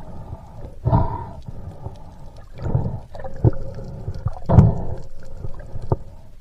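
Underwater water noise: surges of gurgling and rushing water about every two seconds, with scattered sharp clicks.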